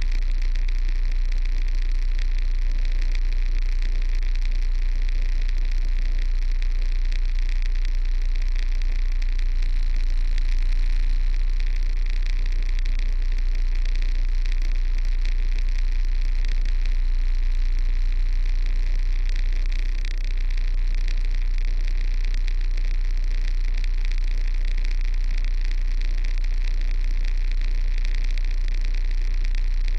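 Heavy truck's diesel engine running steadily, a constant low drone with hiss over it, dipping briefly about two-thirds of the way through.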